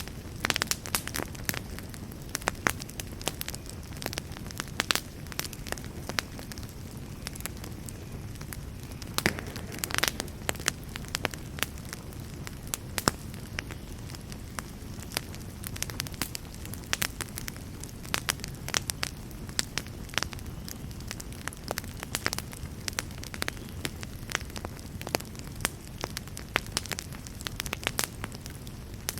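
Wood fire burning in a fireplace: a steady low rushing of the flames with irregular sharp crackles and pops from the burning wood.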